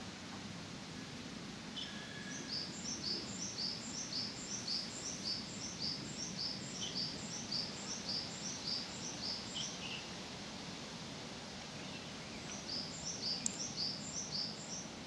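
A small songbird singing a quick series of repeated high two-note phrases, about two a second, for some seven seconds, then again briefly near the end, over a steady outdoor background hiss.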